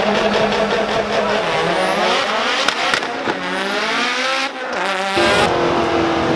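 Mitsubishi Lancer Evolution's turbocharged four-cylinder engine accelerating hard down a drag strip, its pitch rising steadily, dropping at a gear change about three seconds in, then rising again.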